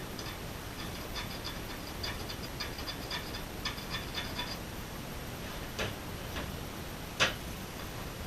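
Light, ringing metallic clicks, a few a second and unevenly spaced, as small metal tools and engine parts are handled. Near the end come a few louder clicks and one sharp knock.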